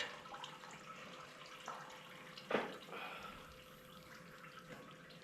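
Antifreeze coolant trickling and dripping from the tractor engine's drain into a catch container, faint and steady, with one short sharp sound about two and a half seconds in.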